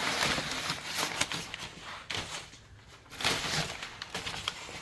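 Packing paper rustling and crinkling as it is pulled out of a cardboard box, in two bursts with a brief lull between.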